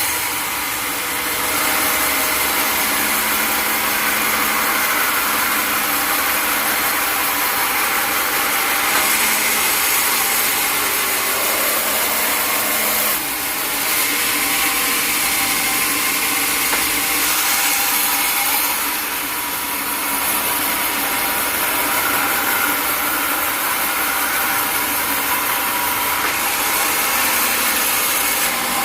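Engine-driven sawmill saw running steadily while cutting wood, with two brief dips in level partway through.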